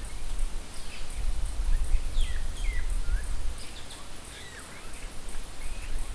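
Outdoor nature ambience: several short bird chirps and whistles, gliding up and down in pitch, over a steady high hiss and a low rumble.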